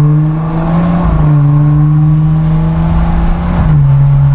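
BMW 320i engine running loud and steady on its exhaust, already warm rather than on a cold start. The engine speed rises slightly about a second in and drops back near the end.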